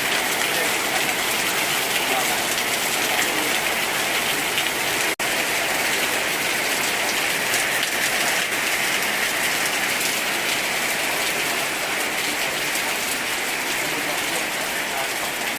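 Heavy rain pouring steadily: a loud, dense, even hiss, broken by a momentary dropout about five seconds in.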